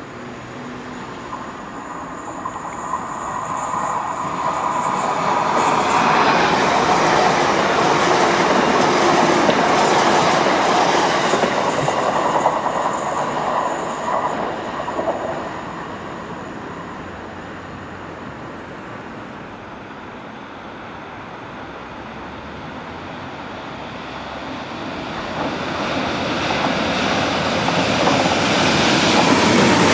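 A Class 802 bi-mode train passing through a station: its running noise builds over a few seconds, holds for about ten seconds with a few sharp clicks from the wheels, then fades. Near the end a Network Rail multi-purpose vehicle (MPV) approaches, its noise building again.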